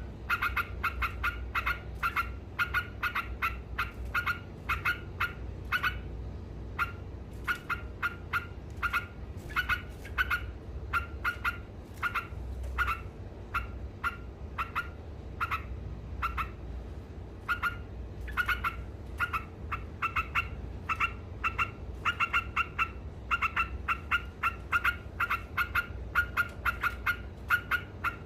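Trucukan (yellow-vented bulbul) chattering in long 'ngekek' runs of short, rapid notes, several a second, with one brief pause about six seconds in.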